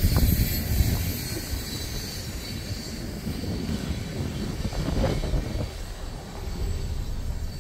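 Freight train passing, a steady low rumble.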